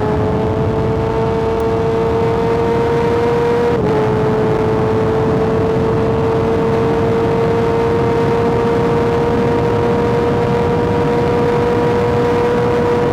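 Kawasaki ZX-6R inline-four engine running at high revs under way, its pitch creeping slowly upward with a brief dip about four seconds in, over a steady rushing noise.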